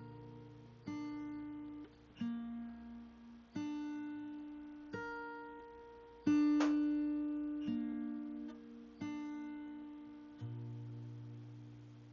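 Background music: slow plucked guitar, a note or chord struck about every second and a half and left to ring out, the strongest about halfway through.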